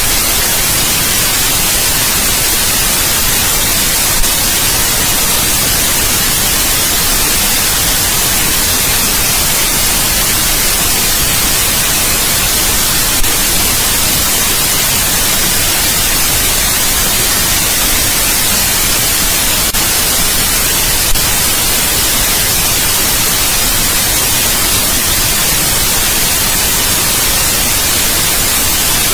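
Steady, even white noise: a constant full hiss without pitch or rhythm, with a few faint brief clicks.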